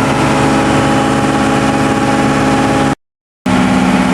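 New, not yet run-in TDME-490 four-cylinder marine diesel running steadily. About three seconds in the sound cuts out for half a second and comes back with a different, deeper-sitting tone.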